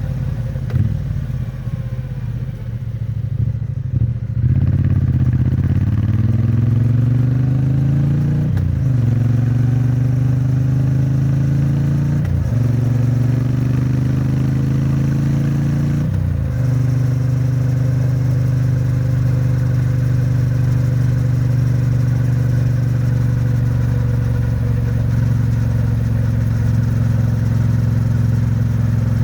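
Triumph Bonneville T100's 900 cc parallel-twin engine pulling away at low speed, then accelerating through three upshifts, each a rising pitch cut by a brief dip at the gear change. It then settles into a steady cruise, run at moderate revs because the engine is still being run in.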